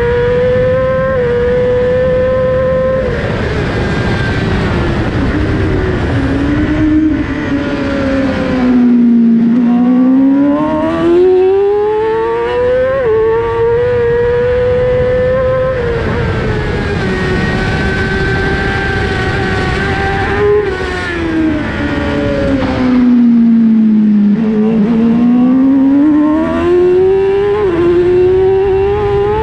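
2018 Yamaha R6 inline-four engine at racing revs, running high and steady near the top of its range. Twice the revs fall to about half and climb back, with quick steps in pitch at the gear changes.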